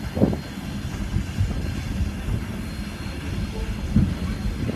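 Heritage steam train's passenger car rolling along the track: a steady low rumble of wheels on rail, with a brief louder moment about four seconds in.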